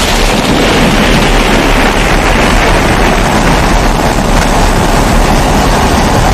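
Pressurised kerosene stove (babour) burner running with a steady, loud rushing noise.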